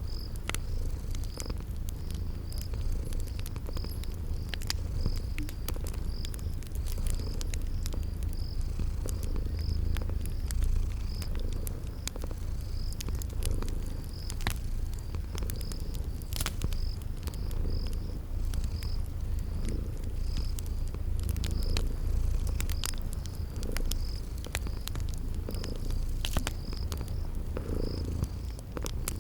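Cat purring steadily, with fire crackles popping now and then and crickets chirping in an even, high pulse about one and a half times a second.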